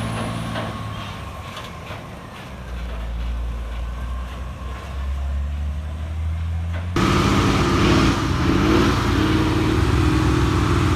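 Heavy diesel trucks labouring up a steep grade, their engines running low and steady. About seven seconds in, the sound jumps suddenly much louder as a truck engine pulls close.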